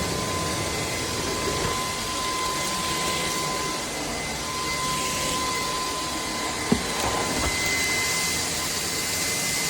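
CAMIY 580 W cordless stick vacuum cleaner running steadily: a constant rush of air with a high motor whine, and one brief click about two-thirds of the way through.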